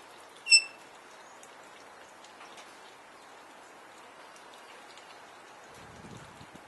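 A galah gives one short, loud screech about half a second in, followed by a steady rain-like hiss, with a faint low rustle near the end.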